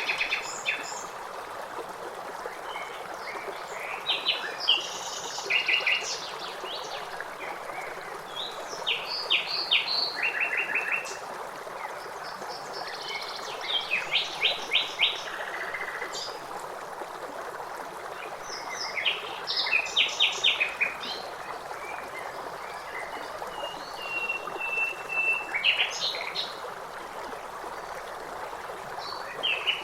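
Songbirds singing short phrases of rapid repeated notes every few seconds over the steady rush of a stream. One long single whistled note comes about three-quarters of the way through.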